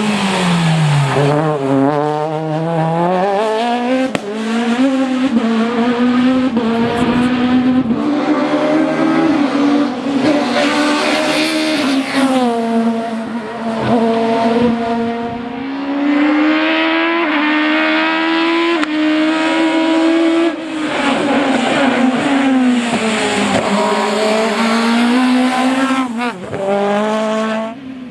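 F2000-class rally car engine revving hard and repeatedly, its pitch climbing and dropping through gear changes and lifts, with brief dips in loudness and some tyre noise.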